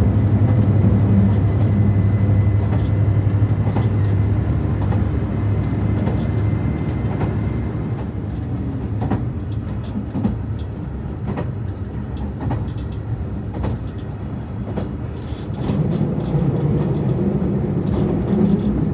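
Cabin noise inside a JR Shikoku 2700-series diesel railcar as it slows on the approach to a station. A steady low engine drone fades out about seven seconds in. The rumble of the running gear carries on, with regular clicks about once a second, and grows louder again near the end.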